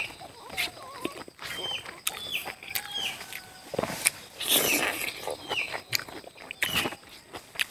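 Close-miked eating sounds: wet chewing, lip smacks and clicks from a mouth working on food, with a louder, fuller stretch of chewing about halfway through. A bird gives short falling chirps over and over in the background.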